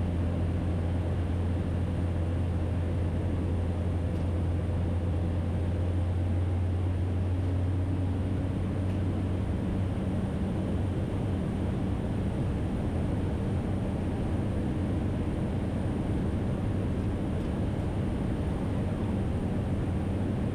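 Cabin noise of a Cessna 208 Caravan in flight: the steady drone of its PT6A turboprop engine and propeller, with air noise. About ten seconds in, the strong low drone eases and its tones shift.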